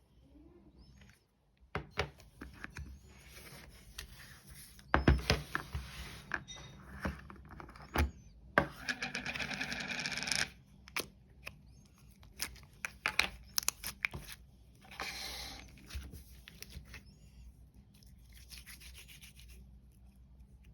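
Hands handling yogurt cups and packaging: rubbing, light taps and clicks, with a stretch of rustling or tearing about nine seconds in and a shorter one near fifteen seconds.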